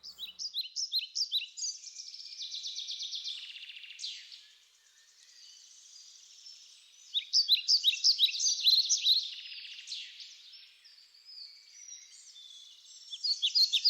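Birdsong: quick series of high chirps and trills from small birds, coming in waves, with the densest bursts about halfway through and again near the end.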